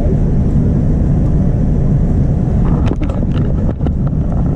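Steady low rumble of a Boeing 787-9's jet engines and airflow, heard inside the cabin from a seat over the wing. A few light clicks and knocks come through in the second half.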